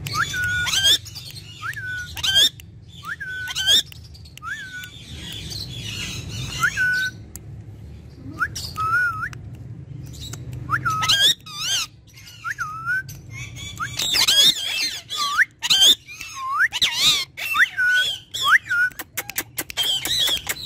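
Ringneck parrot calling: a run of short whistled notes, each rising and then holding, about one a second, mixed with harsh squawks and chatter that grow busier in the second half.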